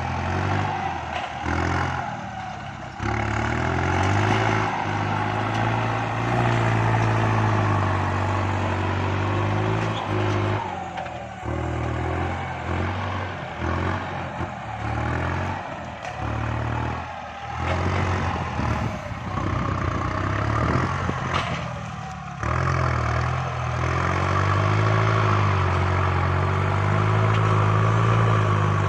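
Kubota MU5702 tractor's diesel engine working under load as it pushes soil, its pitch rising and falling, with several short drops in the engine note.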